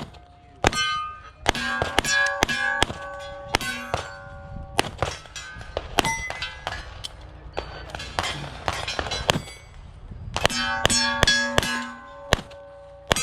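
Pistol shots fired in quick strings at steel targets, each hit followed by the steel plates ringing out with clear, sustained tones.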